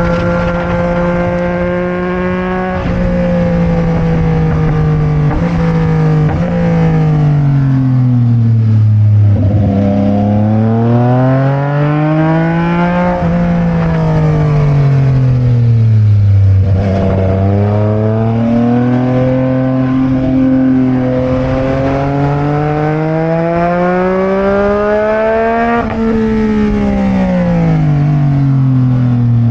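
Sport motorcycle engine under way on the ride. Its pitch steps a few times in the first seven seconds as the gears change. It then falls and rises repeatedly as the rider rolls off and gets back on the throttle, with a long slow climb in revs in the second half and a drop near the end.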